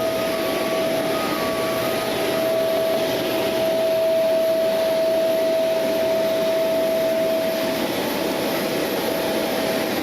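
Steady rushing whine of aircraft jet-turbine machinery, with one high held tone over it that briefly dips near the end.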